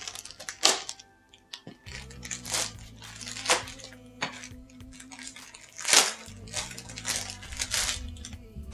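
Packaging being torn and crinkled open in irregular rustles and rips, the loudest about a second, three and a half seconds and six seconds in. Soft background music plays underneath.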